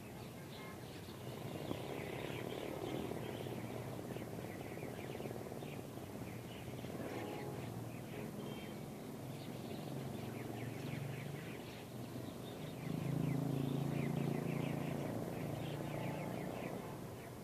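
A flock of small birds chirping busily, many short calls overlapping, over a low hum that grows louder about thirteen seconds in.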